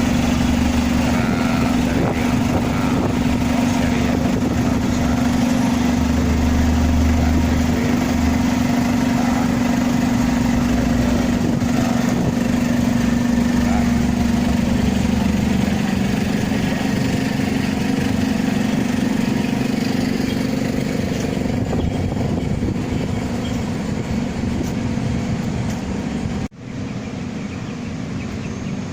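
A large bus engine running with a steady low hum under traffic noise. The hum eases after about fifteen seconds, and the sound cuts off abruptly near the end.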